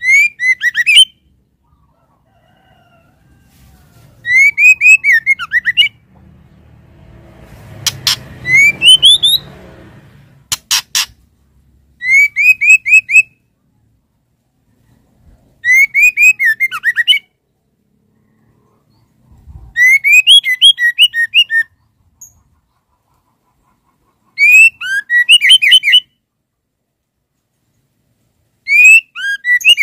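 Female white-rumped shama calling: short bursts of quick rising chirps, repeated about every four seconds, the call a female uses to draw a male. About a third of the way in there is a brief noisy patch with a few sharp clicks.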